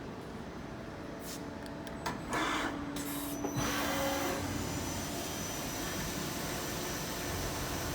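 Daewoo Puma 230 LB CNC lathe running: about two seconds in, a louder machine whir starts and carries on steadily with a thin high whine.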